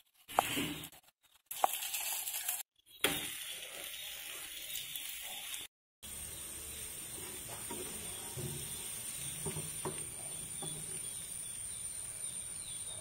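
A little fat sizzling steadily under a puran poli frying on a nonstick tawa, broken twice by brief gaps where the sound cuts out.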